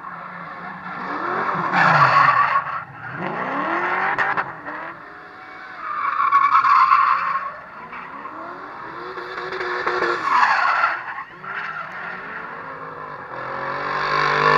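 Drift cars' engines revving up and down while the tyres squeal, in four loud swells about four seconds apart.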